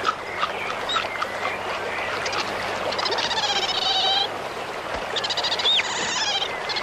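Animal calls: long, wavering cries with a quavering pitch, given twice and answered by short upward chirps, over a steady background hiss.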